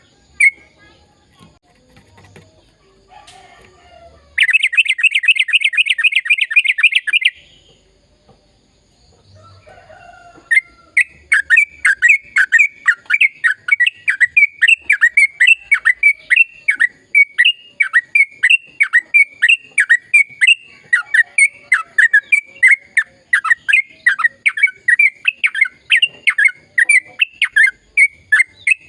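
Yellow-vented bulbul (trucukan) singing. A few seconds in comes a fast trill of notes. After a short pause, a long unbroken run of rapid repeated chattering notes, about three a second, fills the rest: the long 'ropel' song used to set other trucukan singing.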